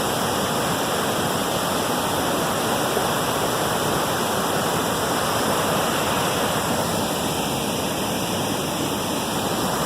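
River rapids rushing steadily down into a waterfall: an unbroken wash of white water.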